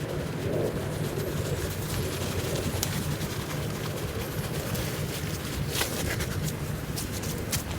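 Steady rain falling in woodland, a continuous hiss over a low rumble, with a few sharp taps of drops scattered through it.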